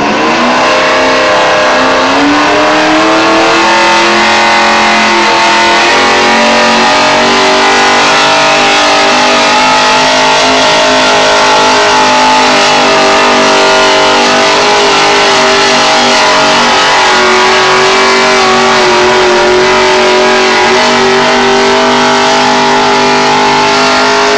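Pulling tractor's engine at full throttle during a tractor pull, very loud. Its pitch climbs over the first few seconds, shifts about six seconds in, then holds high and steady.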